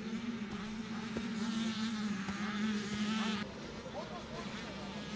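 Several motocross bikes on track, their engines buzzing and revving up and down with wavering pitches. The sound changes abruptly and gets quieter about three and a half seconds in.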